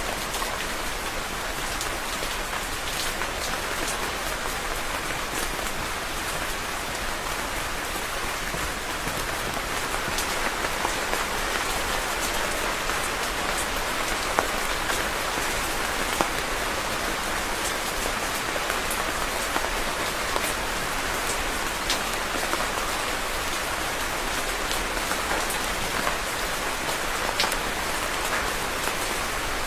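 Steady rain falling, a dense even hiss with scattered louder drop ticks standing out.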